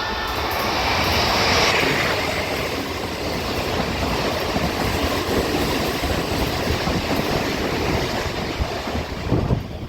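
Odakyu commuter electric train running past on the track: a steady noise of wheels and running gear on rail that swells to a peak about a second and a half in and then holds.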